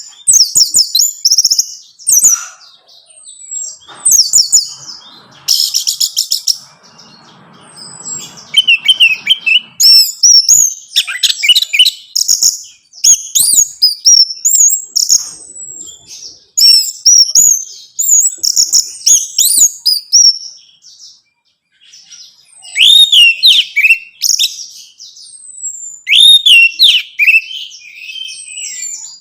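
Orange-headed thrush (anis merah) singing a long run of quick, varied, high whistled phrases that glide up and down, broken by short pauses. A brief rattle comes about six seconds in.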